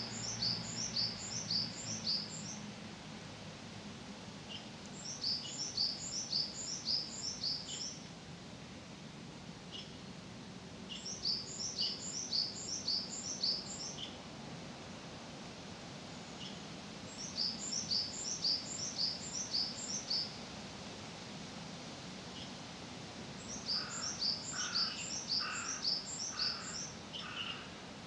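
A songbird singing the same quick phrase of about eight high, downslurred notes, repeated five times at roughly six-second intervals, over a steady low background rumble.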